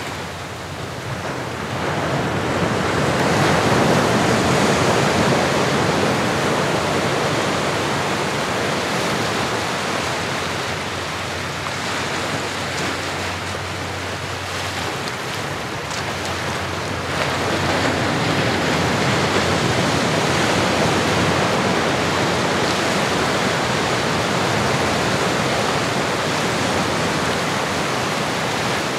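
Ocean surf: a continuous wash of waves that swells a couple of seconds in, eases off around the middle and builds again past halfway.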